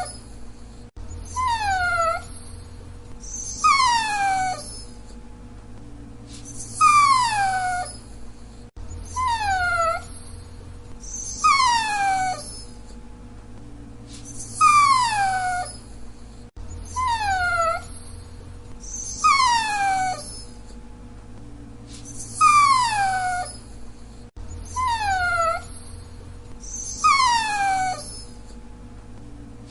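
Dachshund whining: a string of high, falling whines, each about a second long, coming about every two and a half seconds.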